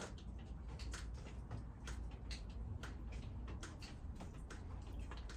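Light, irregular clicks and taps, several a second, from hands sowing small seeds into a plastic cell tray, over a low steady hum.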